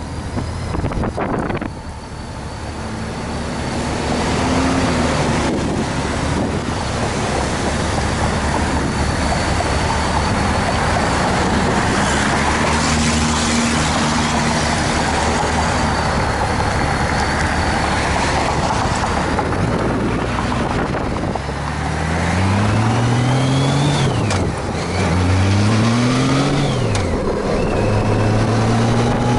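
Honda Gold Wing motorcycle under way, its engine running steadily with wind rush. Near the end it accelerates: the engine note climbs and drops back twice, then settles at a steady pitch.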